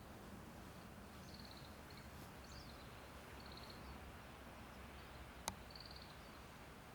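A small bird repeats a short, high, rapidly pulsed trill three times about two seconds apart, with one brief chirp between. The calls are faint over a low steady hiss of distant traffic. A single sharp click a little after five seconds is the loudest sound.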